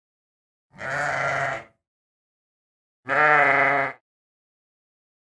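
Sheep bleating twice, each bleat about a second long and quavering, with silence between them.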